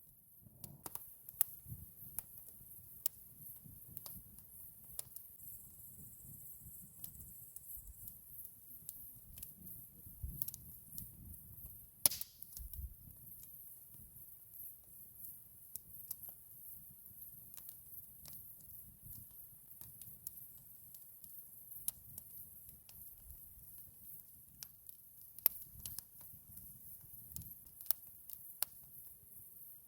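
Wood campfire crackling, with scattered sharp pops, the loudest about twelve seconds in and at the very end, over a faint low rumble.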